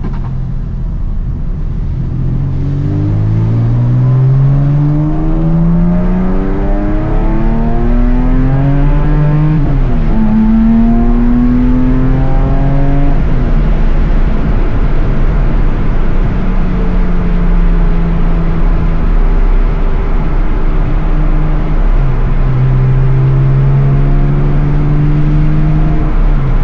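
1999 Porsche 911 (996) Carrera's 3.4-litre flat-six running under way. Its revs climb steadily, drop with a gear change about ten seconds in, climb again briefly, then hold a fairly steady cruising note.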